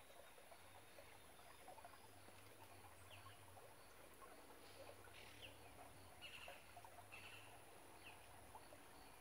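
Near-silent outdoor ambience with a few faint, short bird chirps scattered through it.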